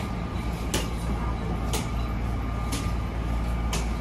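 Steady low rumble inside a commuter train car, with a faint steady high hum and light sharp ticks about once a second.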